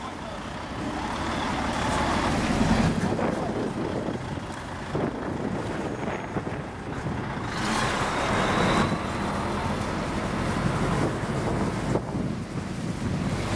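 Lorry's diesel engine running, its sound swelling twice over a steady background of road and rain noise.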